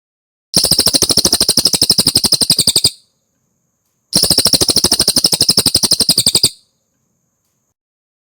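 Cililin songbird singing two rapid trills of about two seconds each, with a short pause between them. Each trill is a fast, even run of some fifteen high notes a second.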